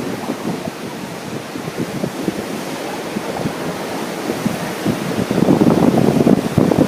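Ocean surf washing on a beach, mixed with wind buffeting the microphone. The gusts grow stronger about five seconds in.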